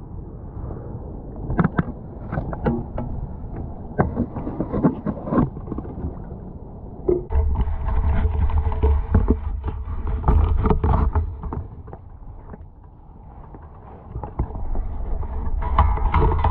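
Water splashing and irregular knocks as a hooked common carp is brought in at the river's edge, with a heavy low rumble on the microphone from about halfway through.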